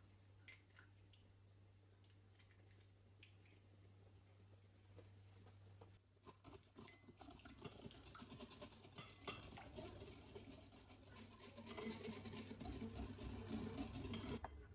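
Faint clicks over a low steady hum at first; about six seconds in, kitchen utensil and dish sounds begin: scraping, tapping and light clinks that grow louder toward the end.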